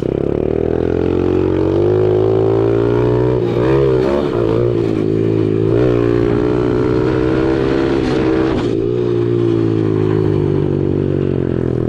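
Small four-stroke pit bike engine running under throttle while riding, its pitch rising and falling as the throttle is worked, with brief revs about four seconds in and again near eight and a half seconds.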